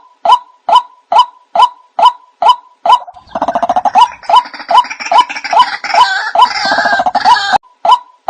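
Recorded white-breasted waterhen calls played as a bird lure: one pitched note repeated about twice a second. From about three seconds in, a denser, busier layer of calling overlays it, then cuts off abruptly near the end, leaving the repeated notes alone.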